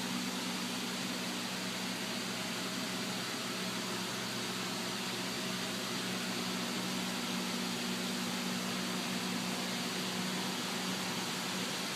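Steady mechanical hum with a low tone and an even hiss, unchanging throughout.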